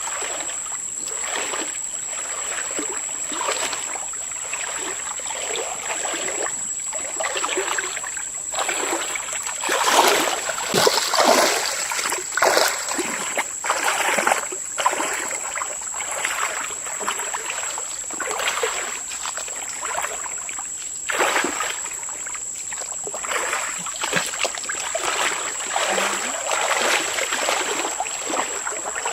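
Water splashing and sloshing in irregular surges, busiest about a third of the way in, over a steady high-pitched tone.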